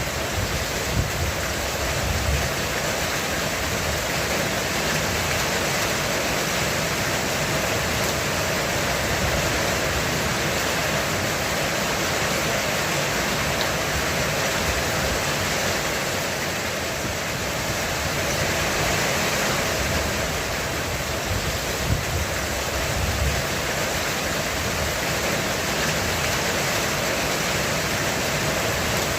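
Heavy rain falling steadily on a roof, a dense even hiss with no let-up.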